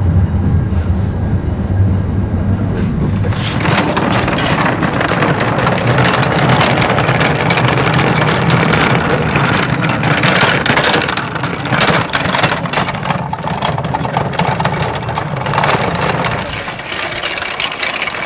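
Railway noise: a steady low rumble, joined about three seconds in by a loud rushing noise that lasts until near the end, then drops back to the rumble.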